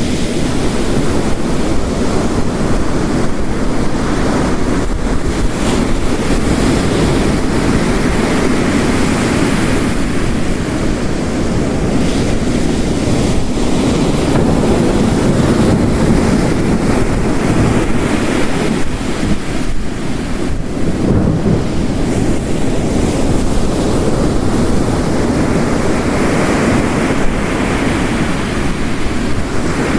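Dense, steady mix of heavy rain and ocean waves crashing on a rocky coast, swelling and easing slowly with the surf, with a swell building near the end.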